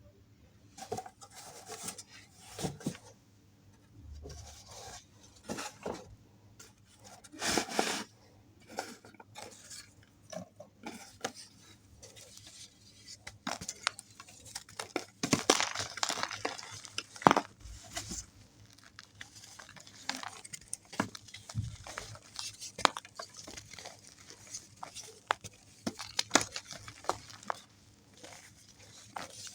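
Irregular close-up clicks, taps and scrapes of hard objects being handled, with clinks like a utensil against a dish; the densest, loudest stretch comes a little past the middle.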